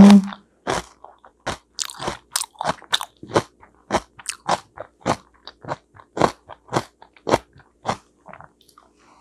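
Close-miked chewing and biting of pressure-cooked sweet potato: an irregular run of short smacking clicks, a few each second.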